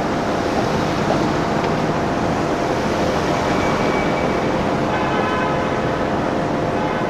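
Steady vehicle and street-traffic noise, an even rumble with a constant hum. A set of ringing, bell-like tones joins about five seconds in.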